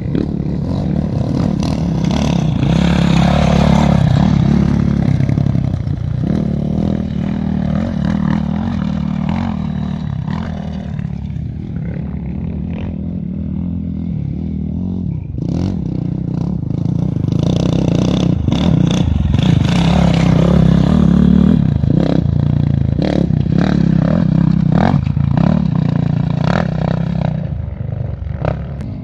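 An engine running steadily, swelling louder twice, with scattered clicks and clatter over it.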